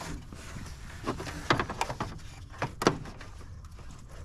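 A few short clicks and knocks of parts and tools being handled in the engine bay, the sharpest about three seconds in.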